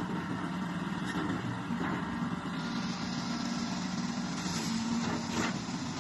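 Hitachi 200 excavator's Isuzu six-cylinder diesel engine running steadily.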